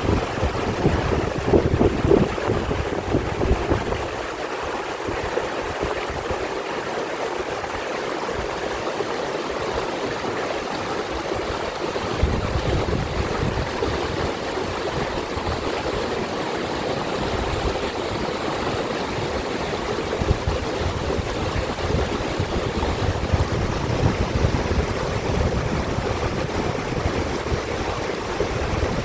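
A mountain stream flowing steadily, with wind rumbling on the microphone at times.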